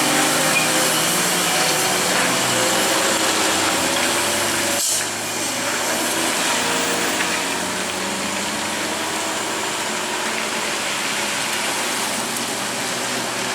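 Vehicle engine running steadily amid road noise, with faint wavering engine tones; the sound changes abruptly about five seconds in.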